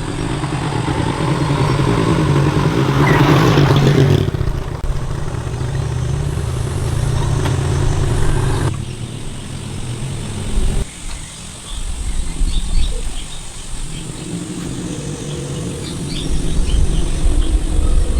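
Motorcycle engine running, revved up a few seconds in, then settling back.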